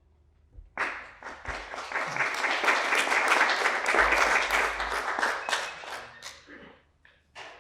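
Theatre audience applauding, starting about a second in, swelling to a peak and then dying away near the end.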